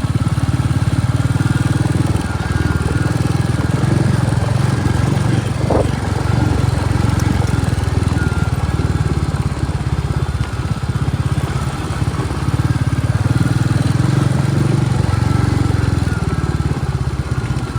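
Royal Enfield Bullet motorcycle's single-cylinder engine running steadily while riding, a fast, even low thump.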